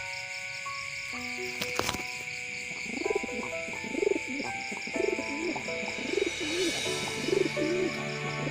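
Domestic pigeon cooing over and over, starting about three seconds in, over background music of held notes.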